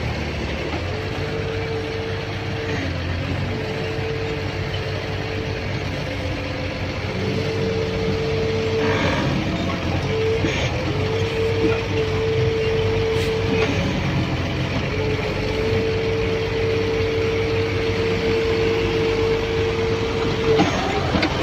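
Excavator's diesel engine running under load, with a whine that comes and goes several times as the machine works, and a few short knocks.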